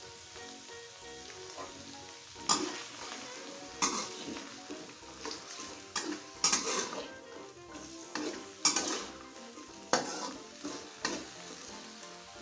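Carrot strips sizzling as they fry in oil with ground chili paste in a nonstick wok. From a couple of seconds in, a spatula stirs them, its scrapes and knocks against the pan coming about every second or two.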